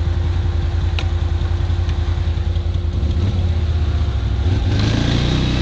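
Quad bike (ATV) engine running at low revs, then revving up and climbing in pitch near the end. There is a single sharp click about a second in.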